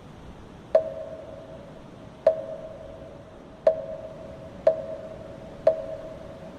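A moktak, the Buddhist wooden fish, struck five times. Each stroke is a sharp hollow knock with a brief ring, the strokes coming about a second to a second and a half apart, over a steady wind hiss.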